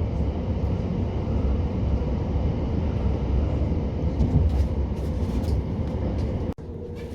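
Steady low rumble and rolling noise inside the carriage of a moving passenger train. Near the end it cuts off abruptly to a quieter steady hum.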